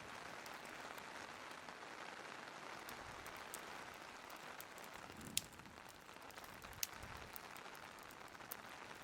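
Steady rain hiss mixed with a crackling wood fire. Scattered faint ticks run through it, and two sharp pops come a little past halfway.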